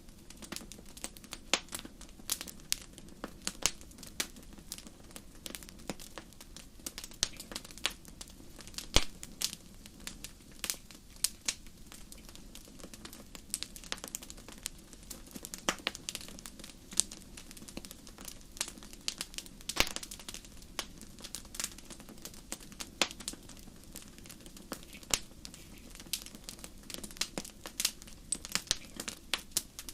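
Fire crackling in a fireplace: a steady run of irregular sharp pops and snaps, a few louder than the rest, over a soft low hiss.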